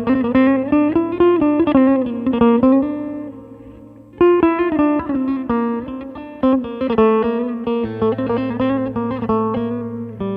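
Electric bağlama (saz) sound from a tablet music app, playing quick plucked melody phrases over a steady low drone, with a short break about four seconds in.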